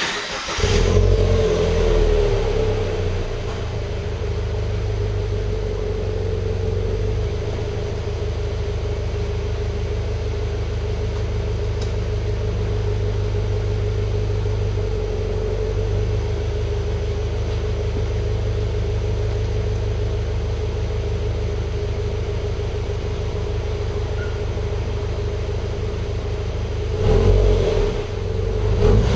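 2010 Subaru Legacy GT's turbocharged flat-four engine starting up through aftermarket Apexi Hybrid Megaphone mufflers, flaring about a second in and then settling into a steady idle. A couple of short revs come near the end.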